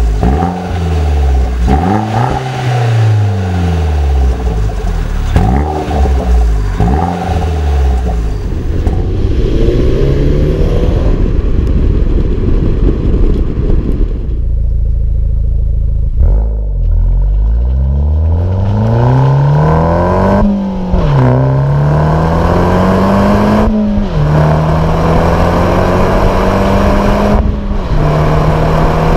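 2016 Opel Corsa OPC's 1.6-litre turbocharged four-cylinder engine revved in several quick blips, its pitch rising and falling. After a steadier stretch it accelerates with the pitch climbing, dropping sharply about three times as gears change.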